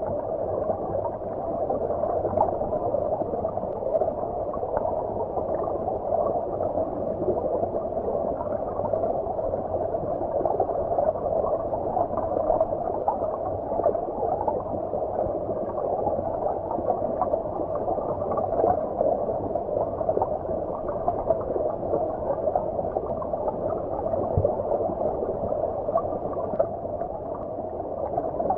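Stream water flowing, heard from beneath the surface: a steady, muffled rush of water with nothing high-pitched in it.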